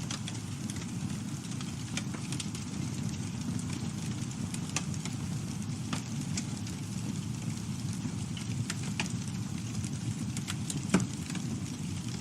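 Campfire burning: a steady low rumble of flames with scattered crackles and pops of burning wood, one sharper pop about eleven seconds in.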